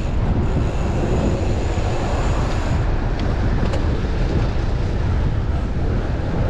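Strong gusting wind buffeting a chest-mounted camera's microphone on a moving bicycle: a loud, steady low rumble with no let-up.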